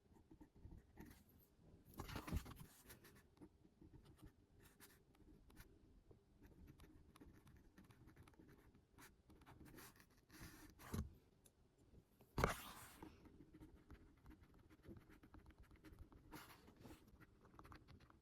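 Faint scratching of a pen writing on paper, with three louder short handling noises about two, eleven and twelve and a half seconds in.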